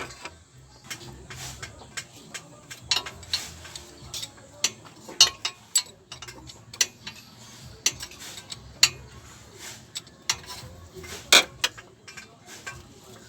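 Irregular metallic clinks and taps of hand tools and small steel engine parts being handled, with the loudest knocks about five and eleven seconds in.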